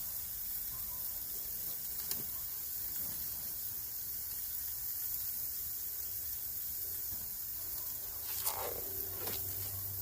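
Marinated chicken breasts sizzling on a hot grill grate as they are seared, a steady hiss, with a few faint clicks.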